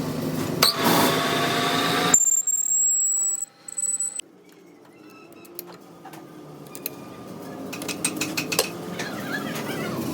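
Metal tools clinking and knocking, broken by abrupt changes: a thin steady high whine for about two seconds, then a quiet stretch, after which the clinking slowly returns.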